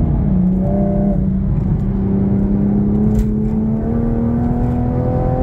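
Toyota Supra's engine pulling hard under acceleration, heard from inside the cabin, with the wheels spinning on the salted road at about 60 mph. Its pitch drops once just after the start, as at a gear change, then climbs steadily.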